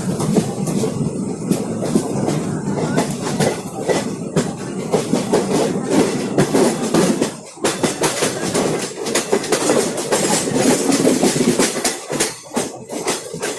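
Train of LHB passenger coaches running past, a steady rumble of wheels with rapid clacking over the rail joints. The sound drops briefly twice, about seven and a half and twelve seconds in.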